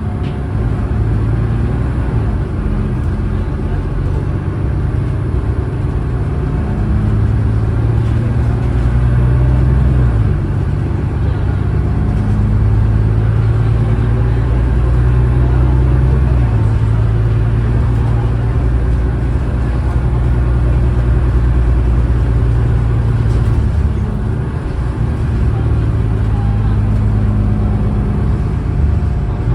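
Cummins ISLe six-cylinder diesel engine of an Alexander Dennis Enviro500 double-decker bus running under load, its note holding steady and then stepping to a new pitch several times as the ZF six-speed automatic gearbox changes gear.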